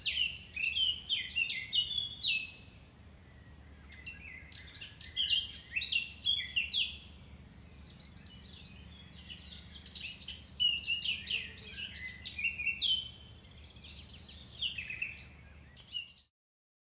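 Songbirds chirping and singing in quick clusters of short phrases, over a faint steady low hum; everything cuts off abruptly near the end.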